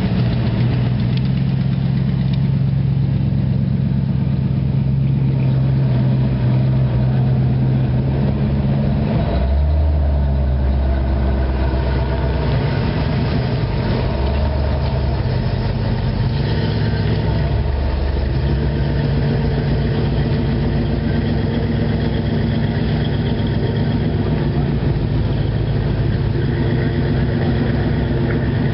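Classic cars and hot rods driving slowly past one after another, their engines running at idle speed. The engine note changes about ten seconds in and again later as one car gives way to the next.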